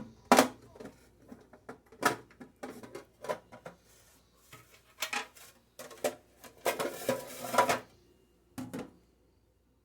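Acrylic food containers and their lids knocking and clattering as they are handled and set down, in separate sharp knocks with a denser run of rattling a little after the middle.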